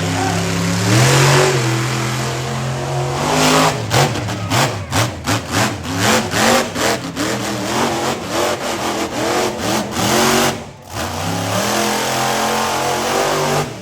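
Monster truck's supercharged V8 engine revving hard, then a long run of quick throttle blips, a few a second, from about four seconds in. It drops away briefly near the end and picks up again.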